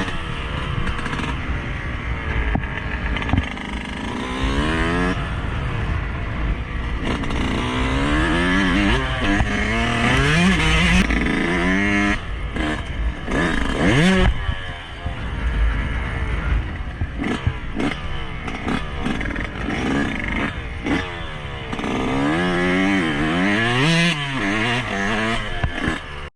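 Yamaha YZ125 two-stroke single-cylinder dirt bike engine being ridden hard, the engine note climbing and falling again and again as it revs up and shifts or backs off. The sound cuts off suddenly at the very end.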